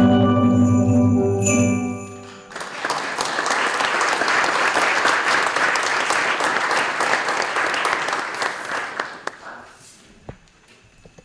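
A steel drum band's final chord rings and stops about two seconds in. Then the audience applauds for about seven seconds, and the clapping fades out near the end.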